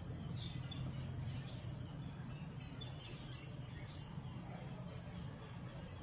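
Faint, short high bird chirps scattered over a steady low hum.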